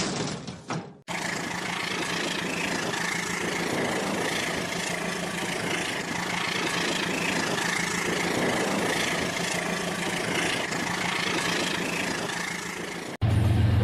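Toy train running on its track: a steady whir of the small electric motor and wheels that starts abruptly about a second in and cuts off near the end, after a few irregular clicks at the start.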